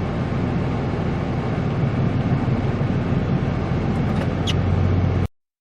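Vehicle on Nitto Ridge Grappler hybrid tyres driving along: a steady low rumble of engine and road noise that cuts off abruptly near the end.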